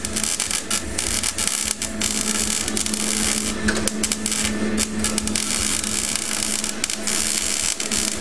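Arc (stick) welder crackling and hissing as a rod is run on the thin, rusted-out metal of a Suzuki ATV's broken axle area, with the welder turned down low; the arc breaks off briefly several times, over a steady hum.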